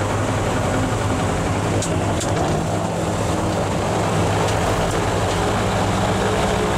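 Rotax 912 four-cylinder piston aircraft engine of a Che-29 seaplane running steadily at idle just after start-up, heard from inside the cabin. The engine is being warmed up before flight.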